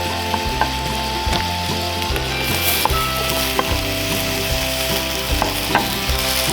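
Food frying, a steady sizzle with sharp pops and crackles here and there.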